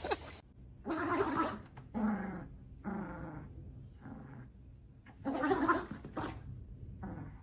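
An excited dog growling and grumbling in a string of about seven short vocal sounds, the longest ones near the start and about two-thirds of the way through.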